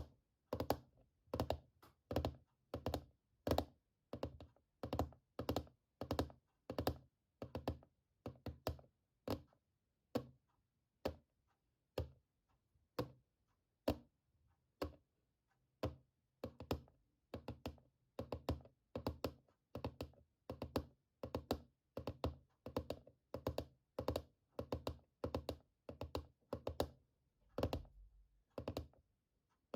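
Close-up ASMR tapping on a hard object, about two taps a second, softer and sparser for a few seconds in the middle.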